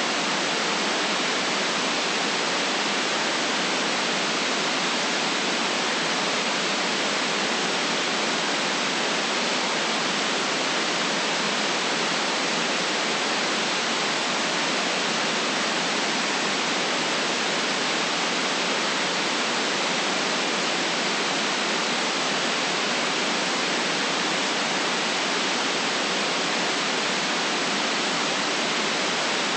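Steady white noise: a constant, even hiss that never changes in level, with no deep rumble beneath it and nothing above the upper treble.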